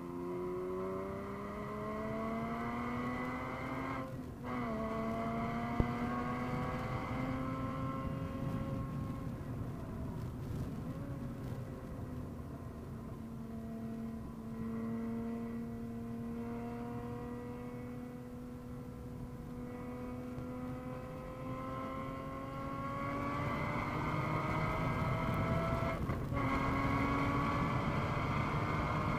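A 2013 Porsche Boxster S flat-six engine heard from inside the cabin, pulling hard on track. Its note climbs steadily with rising revs and dips briefly about four seconds in. It breaks again for an upshift near the end, then climbs on.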